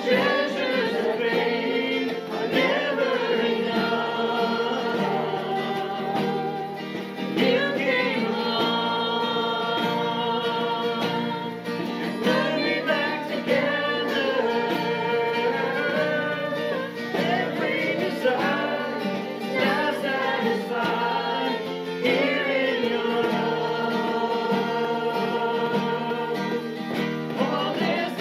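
Congregational worship song: a group of voices singing together over guitar accompaniment.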